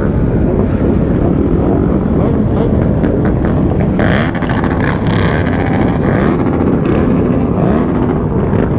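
Motorcycles running on the road in a group ride, with wind rushing over the microphone; a brief brighter, louder passage about four seconds in.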